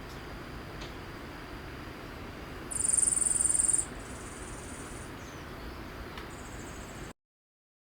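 An insect trills in a rapid, high-pitched pulsing buzz for about a second, then gives two fainter, shorter trills, over a steady low hiss. All sound cuts off abruptly near the end.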